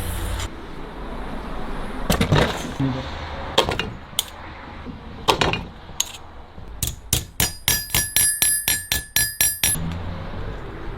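Hammer striking a steel saw blade: a few scattered knocks, then a quick run of about a dozen taps at roughly four a second, the steel ringing under the later ones.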